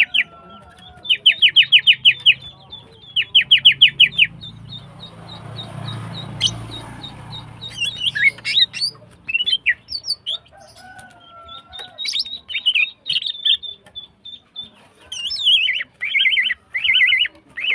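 Female green leafbird (cucak ijo) calling: runs of rapid, evenly repeated sharp notes, about ten a second, broken by varied chirps and short trills. These are the calls of a hen in breeding condition calling for a male. A low rumble sits underneath for a few seconds in the middle.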